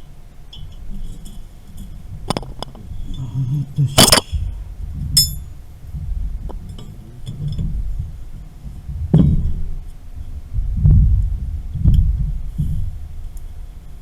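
Metal clinks and clanks from tools and pipe fittings being handled during valve and strainer replacement, with low thumps and handling noise. The loudest sharp clank comes about four seconds in.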